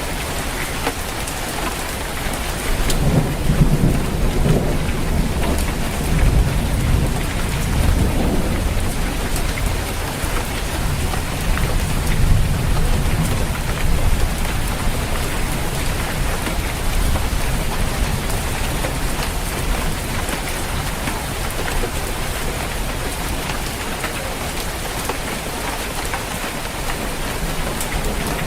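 Steady rain falling on a roof, with a long roll of thunder that rumbles low from about three seconds in and dies away about halfway through.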